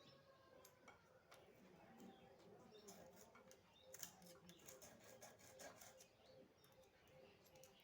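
Near silence with faint scattered clicks and light ticks, clustered around the middle.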